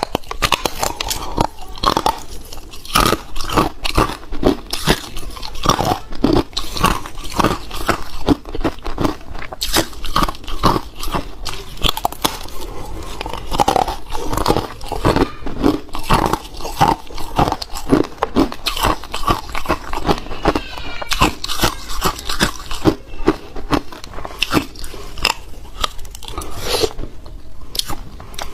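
A person biting and chewing hard ice close to the microphone: dense, irregular crunches, several a second.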